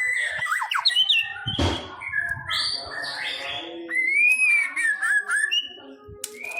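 White-rumped shama (murai batu) singing a long, varied song: clear whistles and slurred rising and falling glides, with a harsh rasping note about two seconds in.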